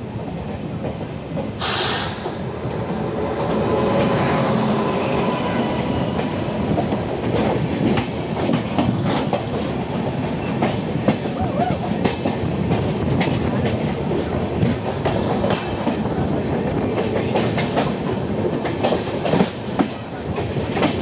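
Passenger train passing close on the adjacent track, heard from a train's open doorway: its wheels clatter over the rail joints in a dense rattle. There is a short burst of noise about two seconds in, and the train gets louder from about four seconds in as the coaches go by.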